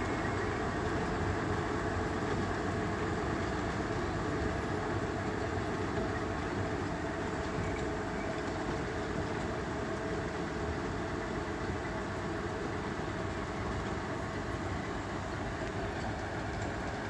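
Narrow-gauge diesel locomotive hauling open passenger carriages across a river bridge. Its engine drones steadily and the wheels run on the rails, growing slightly fainter as the train moves away.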